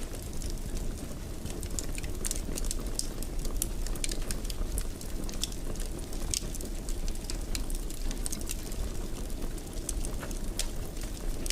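Wood fire crackling in a fireplace: a steady low rumble with frequent small pops and snaps scattered throughout.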